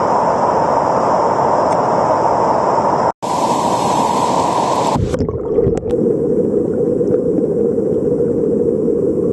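Rushing water of river rapids, a loud steady rush, changing abruptly in tone about three and again about five seconds in.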